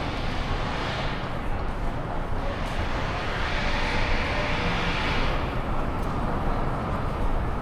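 Downtown street traffic: steady city noise with a vehicle passing, its tyre noise swelling and fading a few seconds in.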